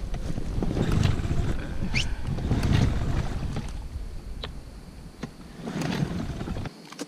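Inflatable boat pushed through the waves: water splashing and wind rushing on the microphone in surges, with no outboard engine running, since it has failed to start.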